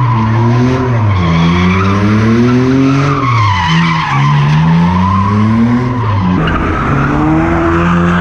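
A car drifting or spinning donuts: the engine revs up and drops back again and again with the throttle while the rear tyres squeal. About six seconds in the revs steady at a lower pitch.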